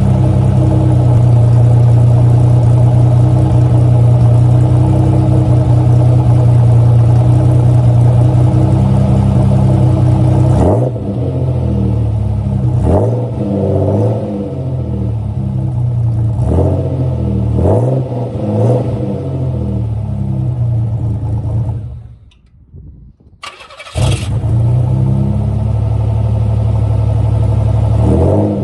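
A car engine idling loud and steady through a quad-tip exhaust, which is steaming from a cold start. About a third of the way in it settles to a lower note and is blipped several times, each rev rising and falling quickly. Near the end it goes quiet for about two seconds, then fires up again with a sudden burst and runs steadily.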